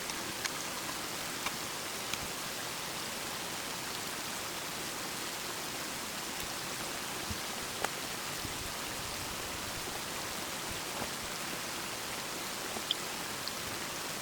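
Water spraying steadily from the open end of a pressurised microhydro supply pipe that has pulled out of its coupling: an even hiss, with a few faint ticks of drops and splashes.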